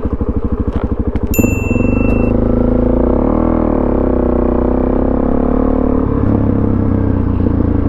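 Suzuki DRZ400SM single-cylinder four-stroke engine through a Yoshimura exhaust, at low revs with each firing beat distinct. About a second and a half in it revs up, rises and falls briefly near the middle, then holds steady as the bike rides on.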